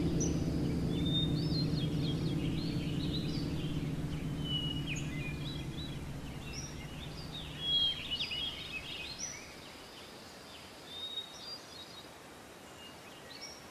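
Several birds chirping and whistling in short, scattered calls. A low steady hum underneath fades away over the first six seconds.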